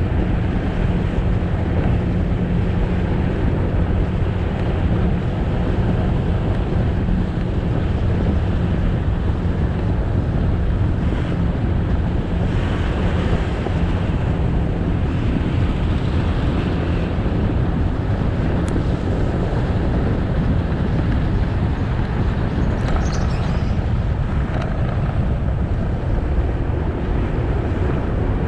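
Motorbike engine running at a steady cruise, with wind rushing over the microphone as the bike rides along.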